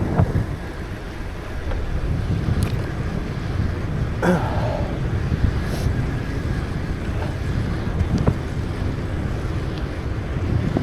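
Wind rushing over the microphone of a camera carried on a moving bicycle, a steady low rumble, with a few brief knocks or rattles, the clearest about four seconds in.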